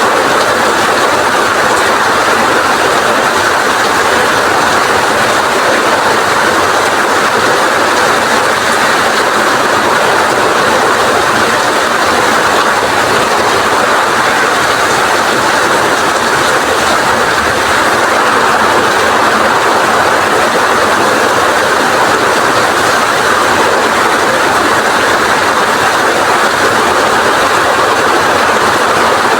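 Heavy rain with strong wind: a loud, steady, dense hiss.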